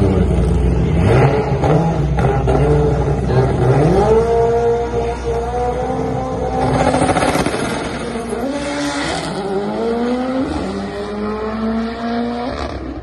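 A 2007 Subaru STI stick-shift drag car's engine revving hard at the starting line, its revs climbing about four seconds in and holding high, then launching and pulling through the gears with short drops in pitch at each manual shift near the end.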